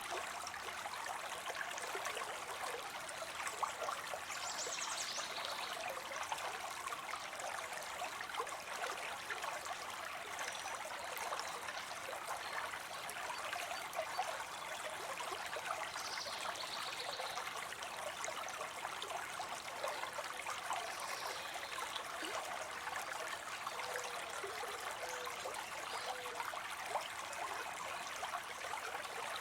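Water spilling into a pond: a steady trickling and splashing of falling water.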